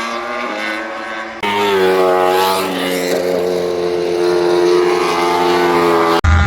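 Racing motorcycle engines running at high revs on the circuit: a loud, steady, many-toned engine note that changes abruptly about a second and a half in.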